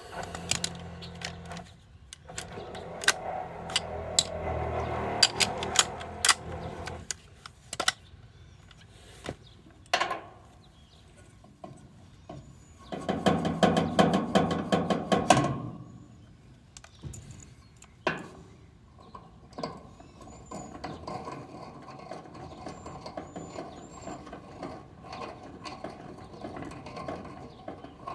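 Clicks and knocks of tools being handled, with a battery-powered hydraulic press tool running for about two and a half seconds near the middle while it crimps a ZoomLock press fitting.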